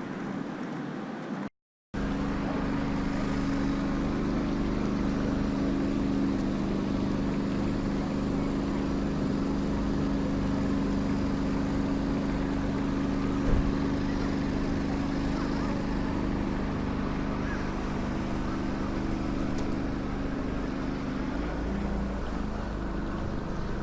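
A motor running with a steady hum over a constant rushing noise. The hum wavers briefly near the end, and there is one short knock about halfway through.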